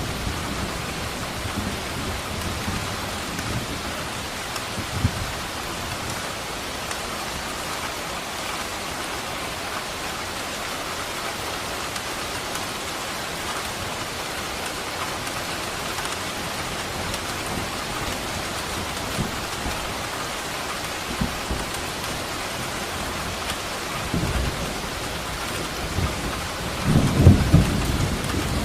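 Steady rain falling with thunder rumbling low in the background; a louder roll of thunder builds near the end.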